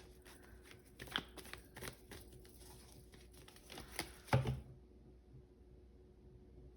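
Oracle cards and small charms being handled and drawn: scattered light clicks and taps, with one louder tap about four seconds in, stopping soon after.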